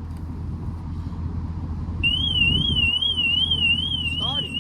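A car alarm starts sounding about two seconds in: a loud, high warbling siren tone sweeping up and down about two to three times a second, over a low steady hum.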